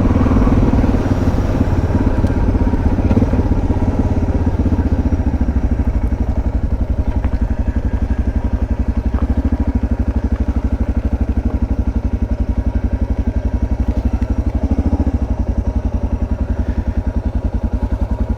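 Suzuki DR650's single-cylinder engine running at low revs, its firing pulses coming in an even beat. It drops a little in loudness about six seconds in and keeps the same steady beat.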